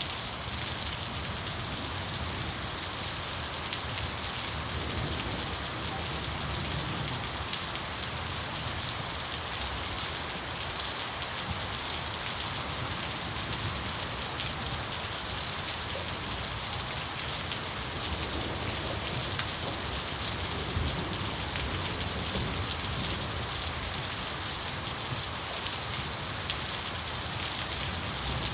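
Steady rain falling, an even hiss dotted with the ticks of individual drops hitting a surface close by.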